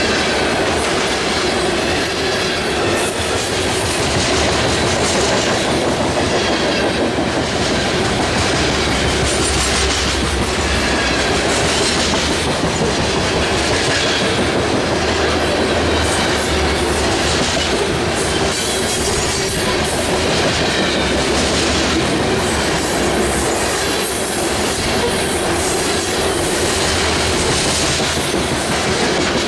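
Freight train cars rolling past, their wheels clicking over the rail joints in a steady, loud run of noise.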